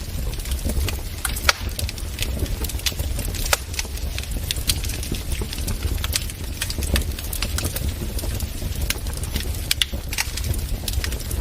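Wood fire crackling in a fireplace. Irregular sharp snaps and pops, several a second, sound over a low steady rumble of the flames.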